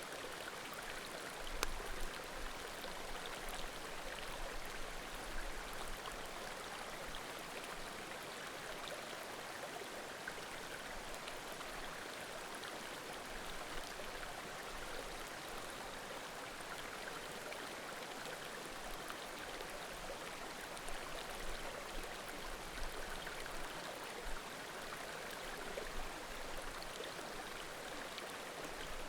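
Small mountain creek flowing steadily, a constant rushing murmur, with a few sharp pops of burning firewood, the clearest about a second and a half in.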